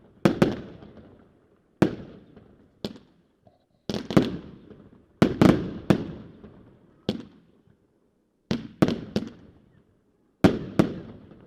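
Fireworks going off: about fifteen sharp bangs at uneven intervals, several in quick pairs, each followed by a rolling echo that fades within a second.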